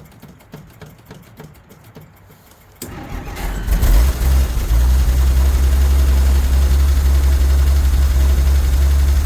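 1963 Jeep Gladiator's engine starting about three seconds in after a hard-start struggle, catching quickly and settling into a steady, loud low idle.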